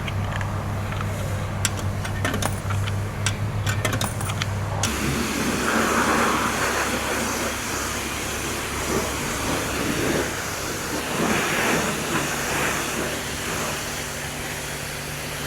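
A car running, a steady low hum with a few sharp clicks. About five seconds in it cuts to a loud steady hiss of water spray, as from a car-wash pressure wand.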